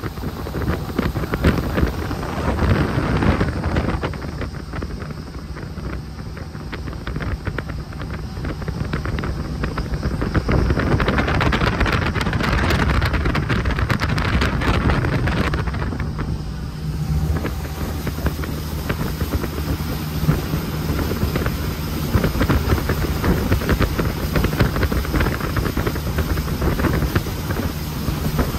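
Jet boat engine running steadily with wind buffeting the microphone. A rush of wind and water noise swells midway and drops off suddenly, leaving the engine hum.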